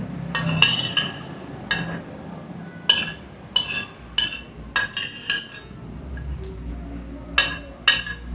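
Metal cutlery clinking against a plate as food is scooped up, about a dozen sharp ringing clinks at an irregular pace, with a gap of about two seconds in the middle.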